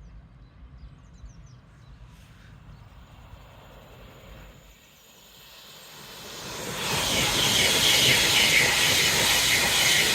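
A train approaching and running through the station at speed: a rushing noise of wheels on rail that builds from about halfway in and is loud for the last few seconds.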